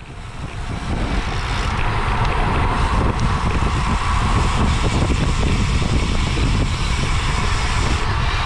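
Wind rushing over the microphone of a camera on a bicycle ridden at race speed, a steady noise that grows louder over about the first second.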